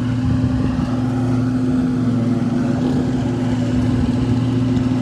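Lawn mower engine running at a steady speed, an even drone with no change in pitch.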